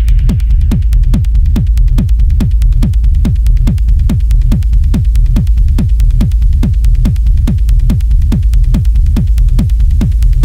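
Techno track: a steady four-on-the-floor kick drum about twice a second, each kick dropping in pitch, over a constant deep bass, with hi-hat ticks between the kicks. A brighter, hissy texture fades out near the start.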